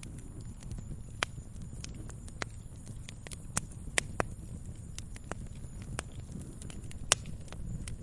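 Wood fire crackling in a fireplace: irregular sharp pops and snaps over a low, steady rumble, the loudest pops about four and seven seconds in.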